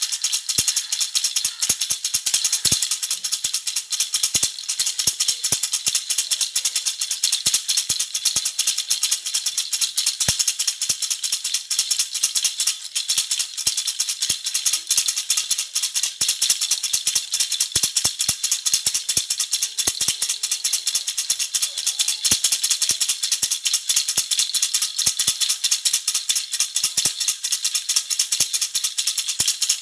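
Baby rattle (jhunjhuna) shaken steadily. It makes a dense, continuous rattling that is bright and high, with no pauses.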